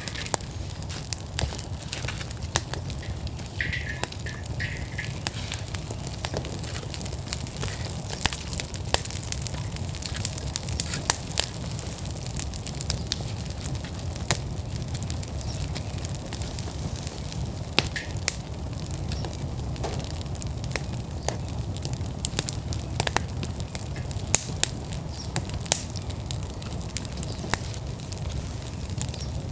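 Outdoor wood fire burning at full blaze: a steady low rumble of flame with frequent sharp crackles and pops from the burning logs.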